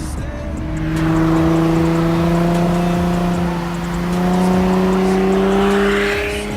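Infiniti G35's 3.5-litre V6 through a Y-pipe and muffler delete, pulling steadily under load with its exhaust note rising slowly in pitch.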